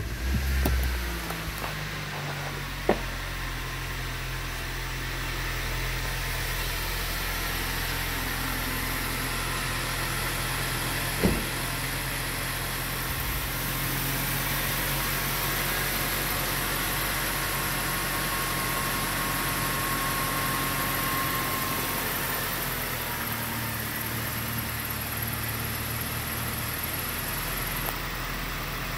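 2010 Suzuki Grand Vitara's 2.4-litre four-cylinder engine running steadily, easing off a brief rev in the first second or so, then holding an even idle. Two sharp clicks stand out over it, one about 3 seconds in and one about 11 seconds in.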